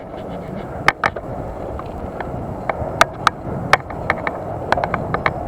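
Bicycle rolling along pavement: a steady rush of tyre and wind noise, with irregular sharp clicks and rattles as the bike jolts over bumps.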